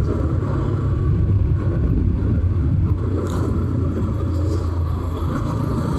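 Bajaj Pulsar 200 NS motorcycle on the move: a steady low rumble of engine and road and wind noise, with no change in pace.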